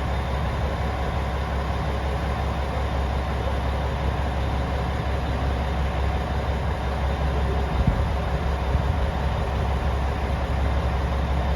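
Diesel engine of a KiHa 47 railcar running with a steady low drone, with a single short knock about eight seconds in.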